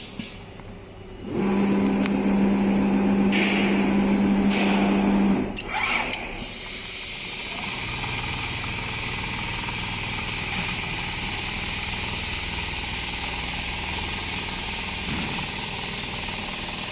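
Automatic large-panel sewing machine running. A loud steady hum starts about a second and a half in and stops about four seconds later. After that a steady machine hiss carries on to the end.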